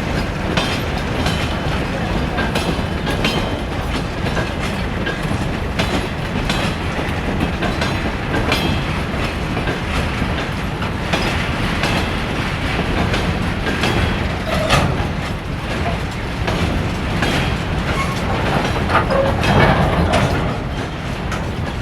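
A train running along the track: a steady rumble, with the wheels clicking irregularly over rail joints.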